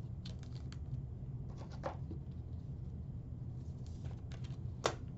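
Trading cards being handled between reveals: faint, scattered small clicks and rustles, with one sharper click near the end, over a steady low hum.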